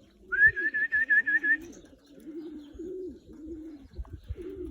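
Racing pigeons cooing steadily, a series of low repeated coos. Near the start a loud, high warbling trill of about seven quick notes sounds over them.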